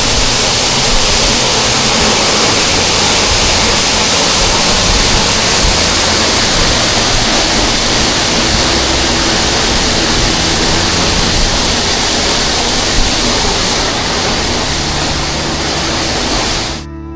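A large waterfall falling with force close by: a loud, steady rush of water. Near the end it cuts off abruptly and music begins.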